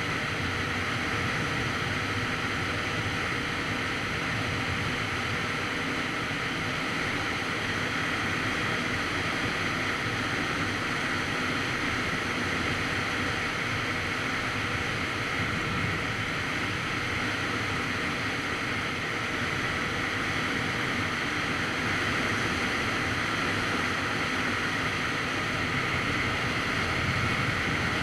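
Steady rushing wind noise on the microphone of a moving motorcycle, with the Kawasaki Z900RS Cafe's inline-four engine running underneath at a steady cruise.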